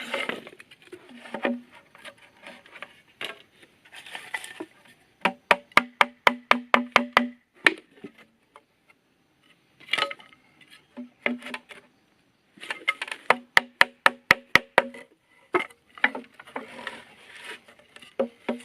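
Wood being struck in quick runs of sharp knocks, about five a second, each with a short ring, broken by pauses of a second or more.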